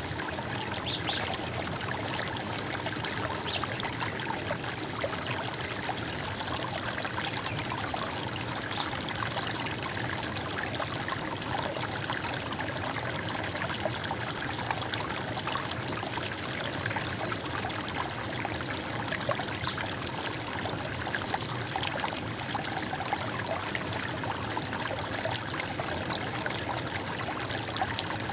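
Running water of a stream, a steady gurgling with many small splashes, unchanging throughout.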